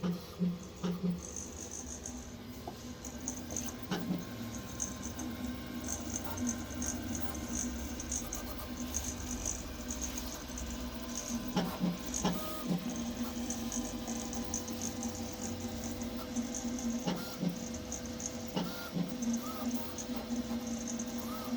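Sapphire Plus 3D printer running a print: its motors hum in steady tones, with short high chirps and brief sweeps and ticks every few seconds as the moves change.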